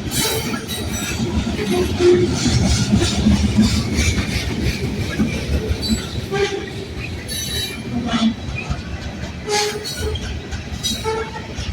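Freight train cars rolling by, with steady rumble, irregular clacks of wheels over rail joints and short high wheel squeals.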